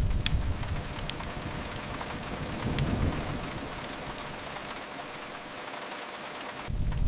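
Steady rain falling on a window, mixed with the sharp, scattered pops of a crackling wood fire. A low rumble fades in the first moment and swells briefly again around the middle.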